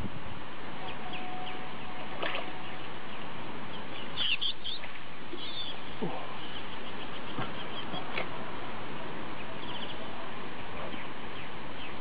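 Small birds chirping over a steady outdoor noise: a cluster of short chirps about four seconds in, another just after, and a quick trill of repeated notes near the end.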